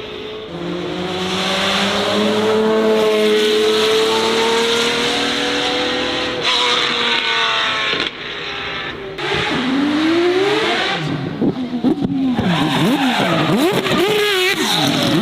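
Race car driven hard: the engine pulls with a slowly rising note, then after a few abrupt breaks it gives quick swooping rises and falls in pitch, with tyre squeal among them.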